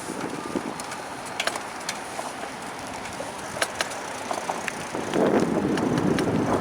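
Bicycle being ridden on the road: tyre and road noise with scattered clicks and rattles from the bike. About five seconds in it grows louder and rougher.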